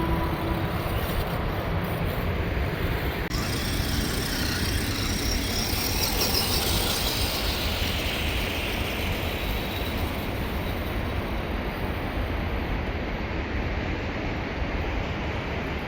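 Redcat Gen 7 RC crawler driving, with a steady rumbling drivetrain noise. A high whine comes in about three seconds in and falls in pitch.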